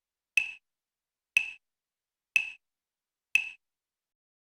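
Evenly spaced sharp ticks, four of them about a second apart, each with a brief high ring, like a metronome click.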